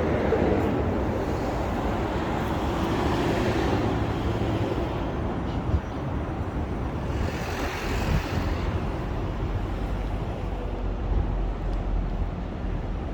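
City road traffic, a steady rush of cars going by, with one vehicle passing close about halfway through and a single sharp click just before it.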